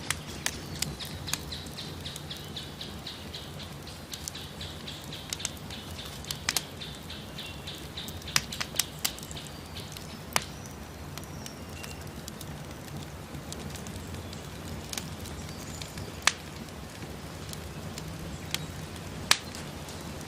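Campfire burning with a steady low rumble and scattered sharp crackles and pops, a few of them louder than the rest. A rapid high trill sounds over it at first and fades out about six seconds in.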